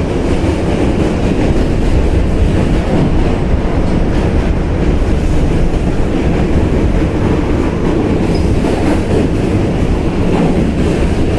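New York City subway D train running over the Manhattan Bridge, heard from inside the car: a loud, steady rumble of wheels on the rails with some clickety-clack.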